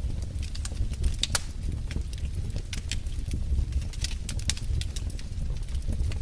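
Fire burning in a fireplace: a steady low rumble of flames with irregular sharp crackles and pops, a few each second.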